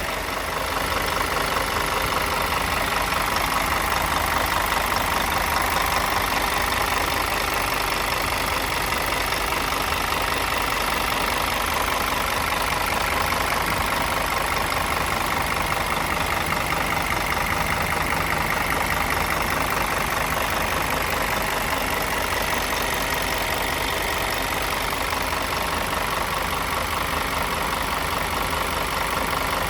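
Scania DC09 Euro 6 five-cylinder inline diesel engine idling steadily.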